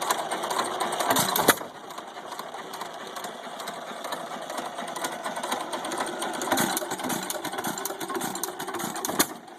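1917 United 2½ hp hit-and-miss stationary engine running with a rapid mechanical clatter. Two sharp bangs stand out, one about a second and a half in and one near the end.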